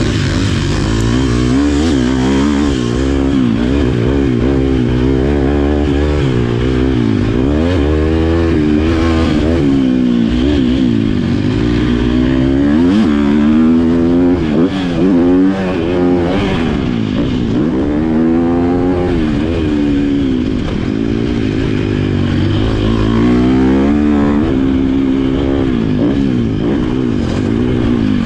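Motocross bike engine revving hard and easing off over and over as it is ridden around a track. The pitch climbs and drops every second or two, with brief cuts in the sound around the middle.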